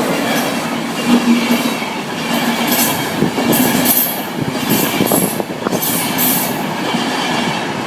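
Class 91 electric locomotive and InterCity 225 coaches passing, a continuous rush of wheel and rail noise with repeated bursts of high hiss as the coaches' wheelsets go by through the middle of the pass.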